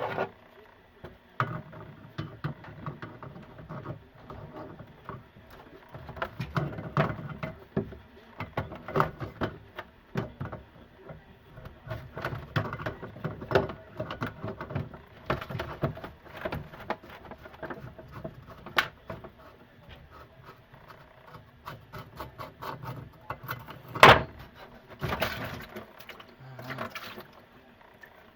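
Irregular clicks, knocks and clatter of hands and tools working on a bathroom sink's drain pipes, with one sharp knock late on.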